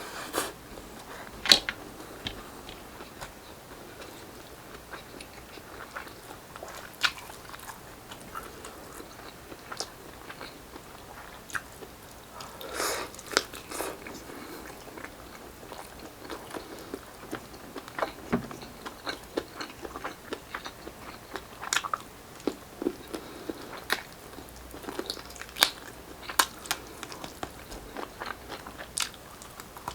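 Close-miked biting and chewing of grilled Filipino street-food barbecue, with irregular sharp crunches and clicks every second or so.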